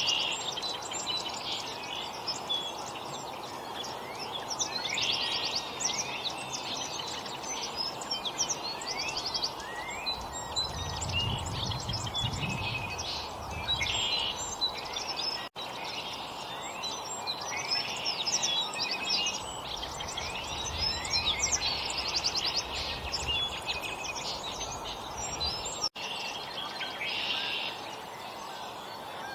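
Many small songbirds chirping and calling in quick, overlapping short notes over a steady background hiss. A low rumble rises and fades about ten seconds in, and the sound cuts out for an instant twice.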